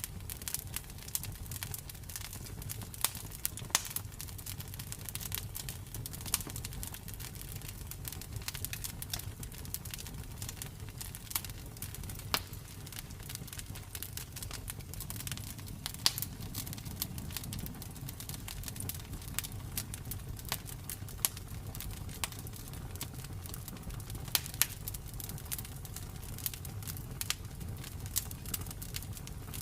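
Campfire burning: wood crackling with irregular sharp pops and snaps, a few louder than the rest, over a low steady rumble of the flames.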